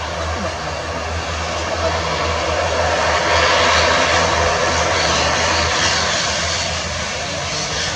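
ATR 72 turboprop airliner's engines and propellers running: a steady low propeller drone under a hiss that swells about three seconds in and eases off near the end.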